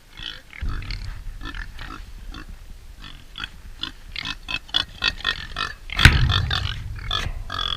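Pigs grunting and oinking in a rapid run of short calls, with one louder burst about six seconds in, over a steady low rumble.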